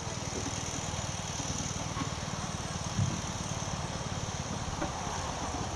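1916 Douglas 2 3/4 hp motorcycle's 350cc flat-twin engine idling steadily with a rapid, even exhaust beat, and a single brief knock about three seconds in.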